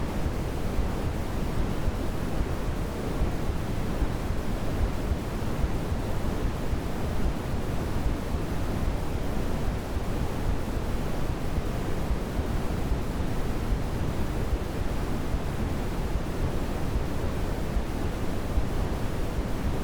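Steady artificial noise of a baby sleep track, a constant rushing sound that is heavier in the low end than a thin hiss.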